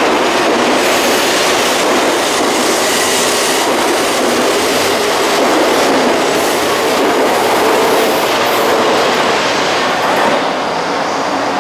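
E5 series Shinkansen train pulling out past the platform and gathering speed: a loud, steady rush of wheels on rail and air along the cars, easing slightly about ten seconds in as the last cars clear.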